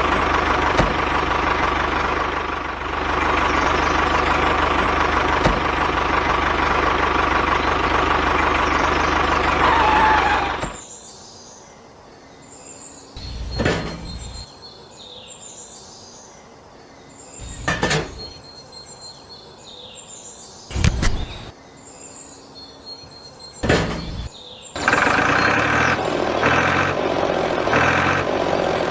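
A tractor engine running steadily, cutting off abruptly about ten seconds in. Four short knocks or whooshes follow a few seconds apart, and the engine sound starts again near the end.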